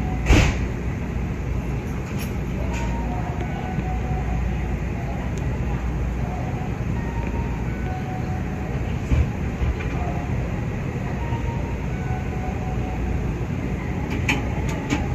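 Nankai 8300-series electric train standing at a station, its onboard equipment giving a steady low hum. There is a sharp click about half a second in and a few clicks near the end.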